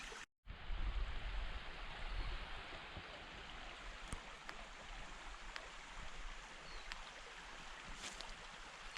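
A river running over stones, a steady rush of water, with a few faint clicks.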